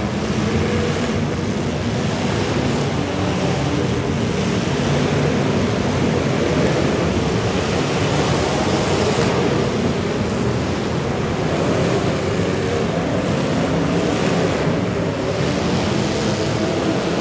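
Several demolition derby cars' engines running and revving together in a loud, steady, dense roar.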